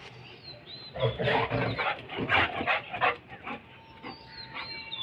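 Golden retriever barking and growling in a run of short, rough outbursts, loudest from about a second in to about three seconds. Faint high bird chirps are heard around them.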